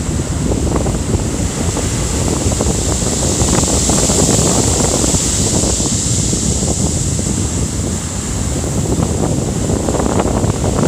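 Heavy typhoon swell surging and breaking on the shore in a continuous loud wash, with a hiss of surf that swells about halfway through. Strong wind buffets the microphone.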